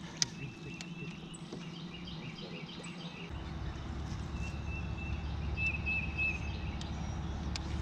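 Birds chirping and singing in short repeated calls, over a steady low hum that grows louder about three seconds in. A single sharp click comes near the start.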